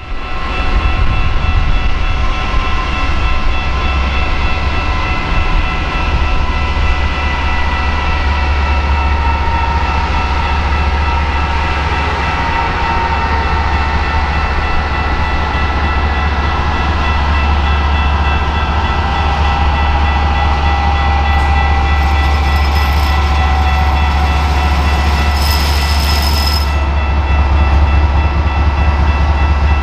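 GE Evolution Series diesel locomotive leading a freight train slowly and close by, its engine giving a loud, steady low drone, with several steady high whining tones above it that sag slowly in pitch.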